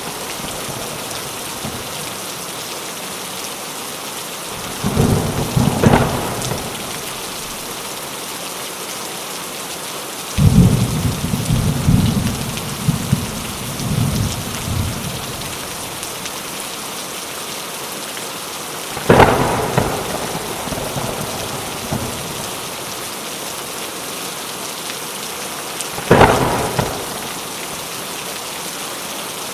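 Steady rain with thunder breaking in several times: sharp claps about 6, 19 and 26 seconds in, and a longer low rolling rumble from about 10 to 15 seconds in.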